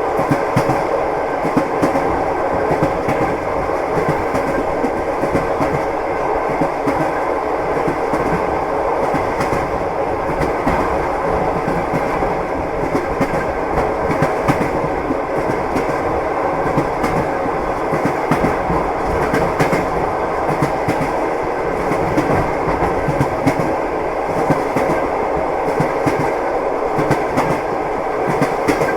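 Train wheels clattering over the rail joints while the train runs at a steady pace. Continuous rumble with many small clicks and knocks throughout.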